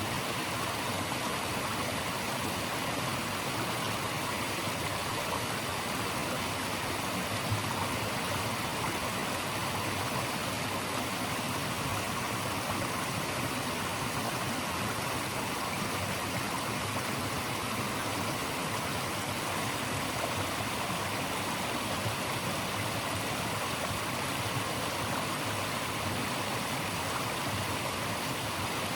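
Running water of a stream rushing steadily, an even, unbroken hiss like white noise.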